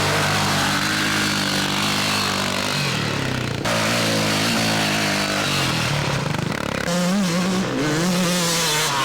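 Dirt bike engines running, with the pitch rising and falling as the throttle is blipped, most of all in the last few seconds. The sound changes abruptly about three and a half seconds in.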